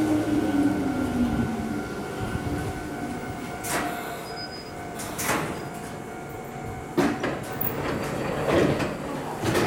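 Shizuoka Railway 1000 series electric train braking to a stop at the platform, with a falling whine over the first two seconds and then a steady hum as it stands. A few brief hisses follow, and then its sliding doors open about seven seconds in.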